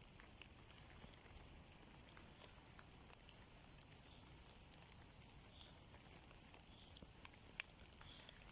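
Near silence: a faint steady hiss with a few scattered light ticks, typical of sparse raindrops.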